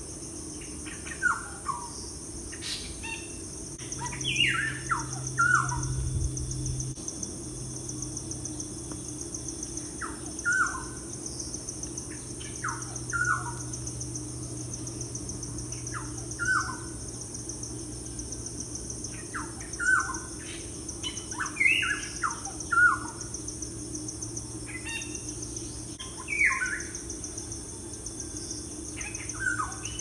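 Birdsong: short phrases of two to four quick falling whistled notes, repeated every few seconds, over a steady high insect drone.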